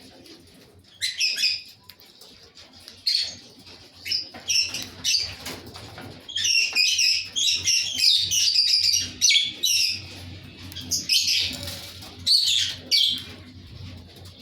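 Fischer's lovebirds chirping in short, high-pitched bursts, which run together into rapid, continuous chattering from about halfway through.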